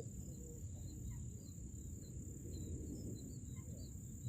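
Steady high-pitched drone of an insect chorus, with faint, scattered short bird chirps over a low wind-like rumble.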